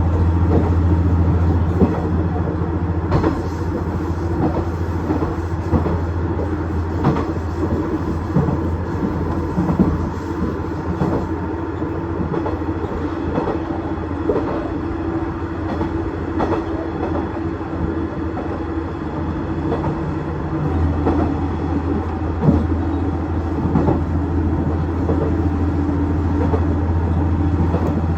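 KiHa 110 series diesel railcar running along the line: a steady low diesel engine drone, with scattered sharp clicks of wheels over rail joints. The engine note eases a few seconds in and strengthens again about three-quarters of the way through.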